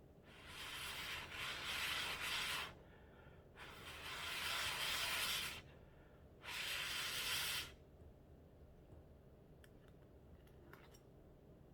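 Three long breathy rushes of air at the mouth over a forkful of hot noodles, each a second or two long with short pauses between, followed by a few faint clicks.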